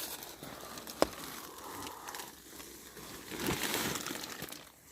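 Tent fabric rustling and crinkling as it is handled, with a single sharp click about a second in and a louder burst of rustling past the middle.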